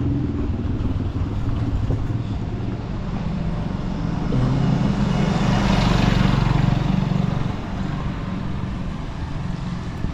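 Street traffic: a steady low rumble, with a motor vehicle passing close by that swells to its loudest about six seconds in and then fades.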